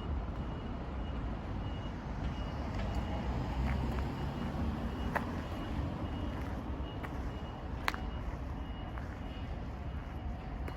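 Kawasaki Zephyr χ's air-cooled inline-four idling steadily through a BEET aftermarket exhaust, a low, even rumble, with a few light clicks.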